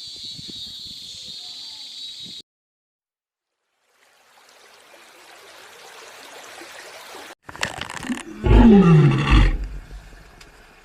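A large animal's loud, low roar-like call about three-quarters of the way in, falling in pitch over about a second. Before it, a steady high hiss stops suddenly, then a short silence and a rising rush of noise.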